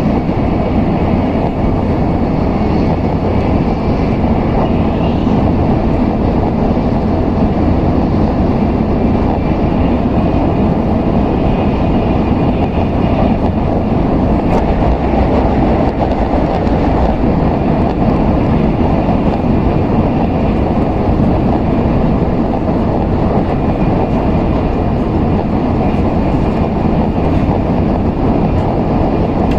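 Steady running noise of an N700S Shinkansen train, a low, even rumble heard from inside the passenger cabin.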